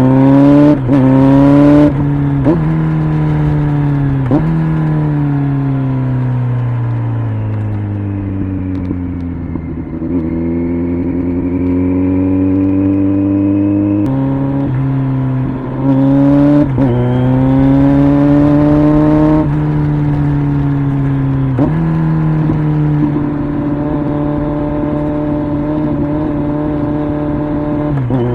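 Kawasaki Z900's inline-four engine through an LCI aftermarket exhaust, pulling hard and shifting up twice within the first few seconds, then easing off and winding down to low revs around a third of the way in. It picks up again about halfway, with quick gear changes between rising pulls, and ends at a steady cruise.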